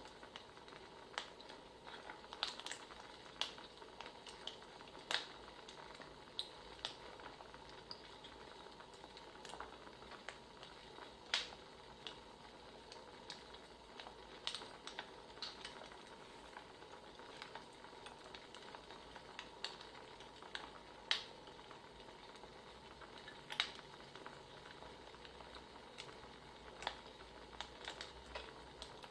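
Wood fire crackling: a steady soft hiss with irregular sharp pops and snaps of burning logs.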